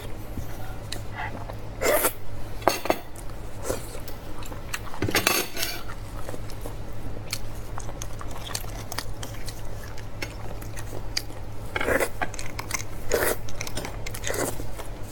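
Eating beef leg bones: scattered clicks and clinks of bones and utensils against dishes, with several short bursts of chewing and biting over a low steady hum.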